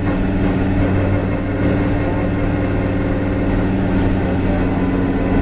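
Lamborghini Huracán GT race car's 5.2-litre V10 engine running steadily at low revs, with a deep, even hum that doesn't rise or fall.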